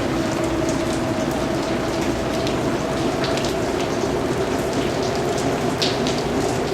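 Steady rain falling on a surface, a continuous patter with many individual drops ticking sharply through it.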